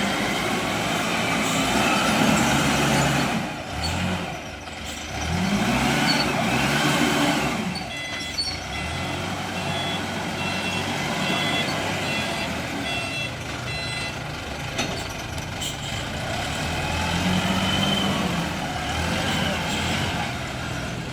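Diesel engine of a ZL932 wheel loader revving up and settling back several times as it works. A reversing alarm beeps repeatedly for several seconds in the middle.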